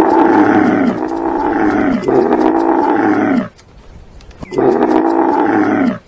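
Dromedary camel calling: three long calls back to back, each falling in pitch, then a pause of about a second before a fourth.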